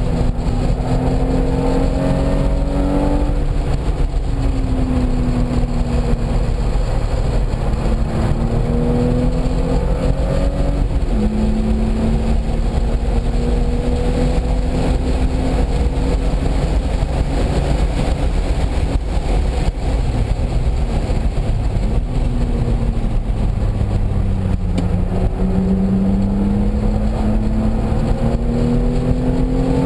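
Car engine being driven hard around a race circuit, its pitch climbing under acceleration and dropping back several times as the car shifts and slows for corners, over a constant low road and wind rumble.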